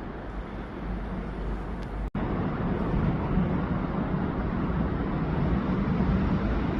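Steady rushing outdoor background noise with a low rumble. It cuts out for an instant about two seconds in, then carries on a little louder.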